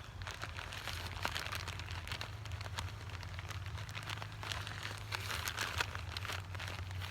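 Crinkling and crackling of a thin plastic sheet as soil-bound bean seedlings are slid off it by hand: many irregular small crackles, over a steady low hum.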